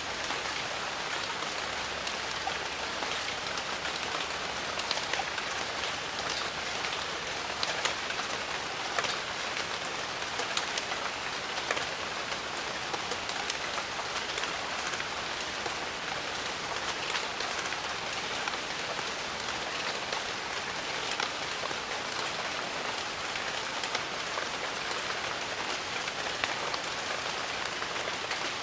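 Steady heavy rain falling on jungle foliage, an even hiss dotted with the sharp patter of individual drops.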